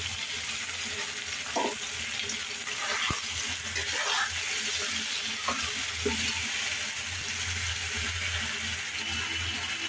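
Onions, tomato and onion-ginger-garlic paste sizzling in hot oil in a steel kadai, with a steady hiss. A metal spatula scrapes and knocks against the pan a few times as the paste is stirred in.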